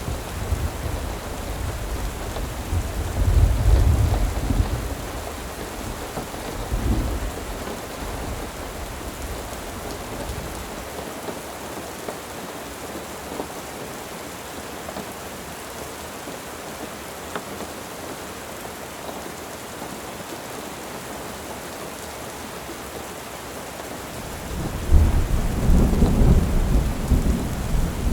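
Steady rain falling, with rolling thunder over it: a rumble a few seconds in, a shorter one soon after, and a loud, long roll near the end.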